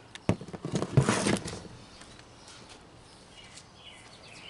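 Quick series of clicks and knocks from parts being handled and fitted on a small engine's stator and wiring, loudest about a second in, then quieter with a few faint taps.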